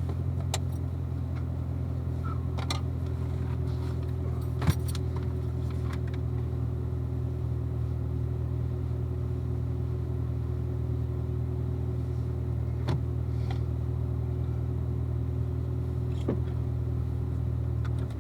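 2016 Corvette Z06's supercharged 6.2-litre LT4 V8 idling steadily, with a few light clicks and knocks over it. The engine cuts off at the very end.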